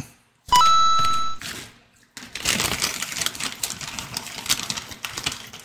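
A brief ringing tone lasting about a second that steps up in pitch, then about three seconds of close, crackling crunching of crunchy Cheetos being chewed.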